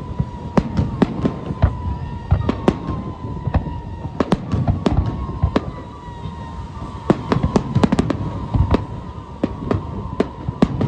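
Fireworks display: a rapid, irregular run of sharp bangs and crackles over a low rumble of booms, growing denser near the end.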